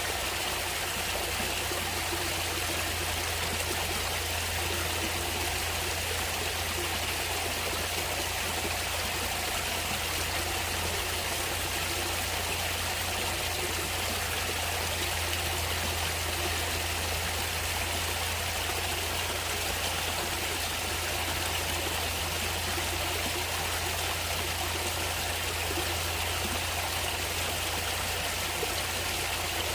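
Natural running water flowing steadily, like a stream, without any break or change.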